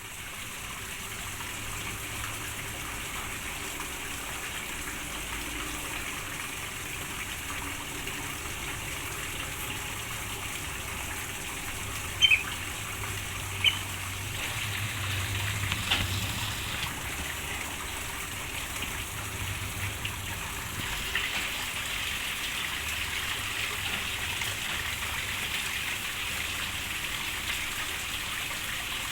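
Steady rain falling, an even hiss of water throughout. Two short sharp sounds stand out about halfway through.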